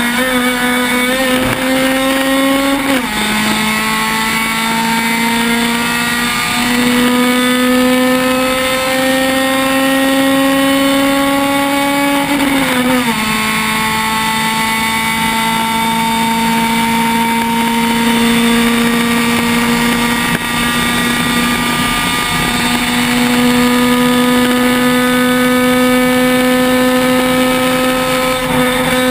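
Honda Civic race car's four-cylinder engine at full throttle, heard from inside the car: the revs climb and drop sharply with upshifts about 3 seconds and 13 seconds in, then the engine holds high, nearly steady revs, flat out.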